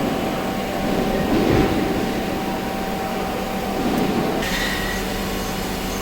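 Hydraulic wheel press's power pack running steadily: a constant whine over an even hum, with a higher whine joining near the end.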